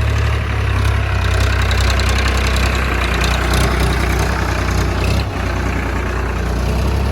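Tractor engine running steadily with a low, even hum while it ploughs a field.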